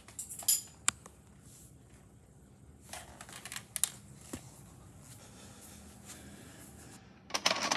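Scattered sharp clicks and rattling handling noises, some in quick clusters, with a louder scuffing burst near the end.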